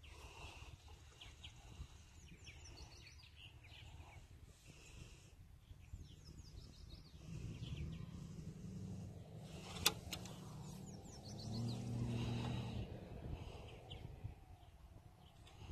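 Small birds chirping in short, quick trills, three or four times, over a steady low outdoor rumble. In the middle a low hum swells for several seconds and fades, and a single sharp click comes just before it peaks.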